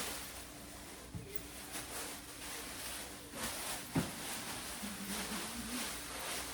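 Kitchen handling noises in a small room: a couple of soft knocks, about a second in and again about four seconds in, over faint rustling and a low steady hum.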